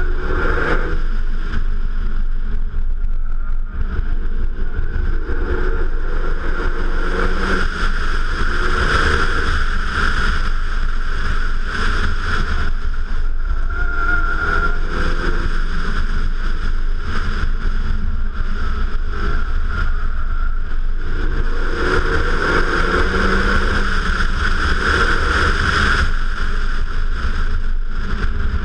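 Renault Mégane RS 265 Trophy's 2.0-litre turbocharged four-cylinder engine driven hard, revs rising and dropping again several times as it accelerates and brakes between corners. Heard from outside the car, with heavy wind rumble on the microphone.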